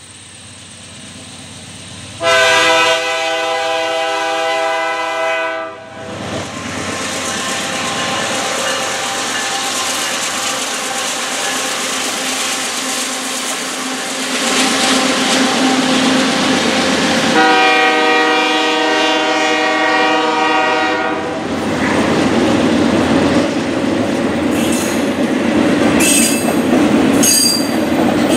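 Freight train passing with its diesel locomotives. The locomotive's multi-note air horn sounds two long blasts, about two seconds in and again about seventeen seconds in, over the loud rumble of the train. Near the end, the wheels click over the rails and squeal briefly.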